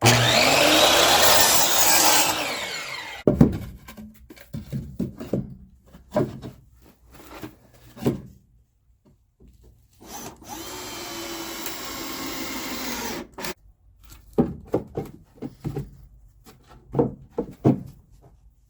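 A power tool working wood: one loud run right at the start lasting a little over two seconds, then a steadier run of about three seconds in the middle that stops suddenly. Knocks and clatter from boards being handled come in between and near the end.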